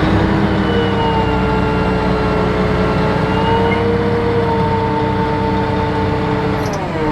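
Crawler bulldozer's diesel engine working under load, heard from inside the cab, with a steady high whine over the rumble. The whine drops in pitch near the end.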